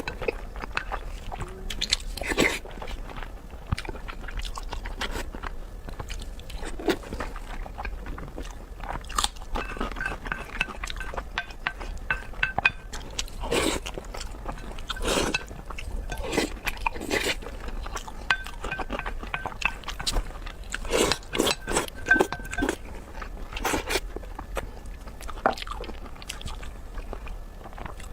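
Close-miked mukbang eating sounds: a person biting and chewing, with irregular crunches and wet smacks.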